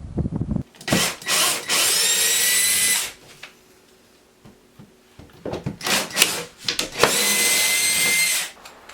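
Power drill/driver running in several short bursts, its pitch rising as it spins up, with a longer run about seven seconds in and a few knocks between runs: screws being driven or backed out of door trim.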